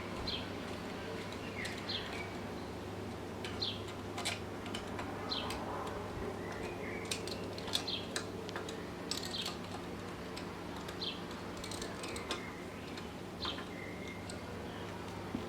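Birds chirping in short calls every second or so over a steady low hum, with scattered light clicks.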